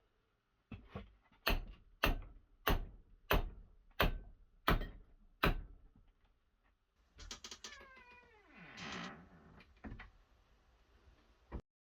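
About seven evenly spaced hammer blows on metal, roughly one and a half a second. Near the end comes a short rasp, then a drawn-out whine that falls steeply in pitch, before the sound cuts off.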